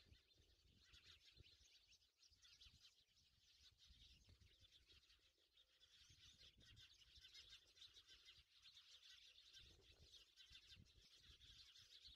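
Near silence with faint high bird chirping.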